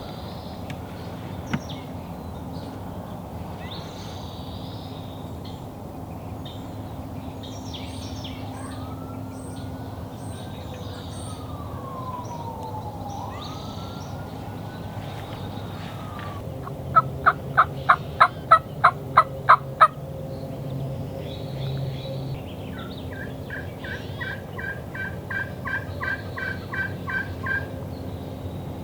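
Turkey calling: a run of about a dozen sharp, evenly spaced yelps a little past halfway, then a longer series of notes that grows louder near the end, with small birds chirping faintly.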